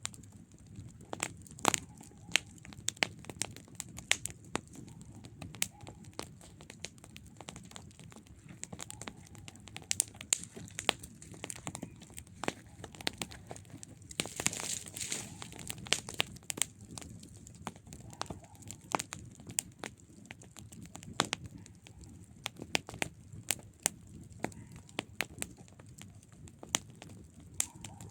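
Wood campfire crackling and popping, with irregular sharp snaps over the low, steady rush of the flames. A brief hiss rises from the fire about halfway through.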